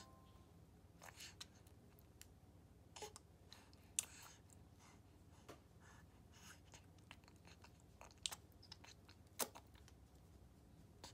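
Near silence with faint, scattered wet clicks and smacks from a baby mouthing and sucking on her toes.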